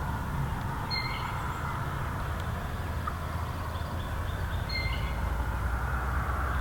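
Outdoor field ambience: a steady low rumble, with a short, high chirp about a second in and another near the end.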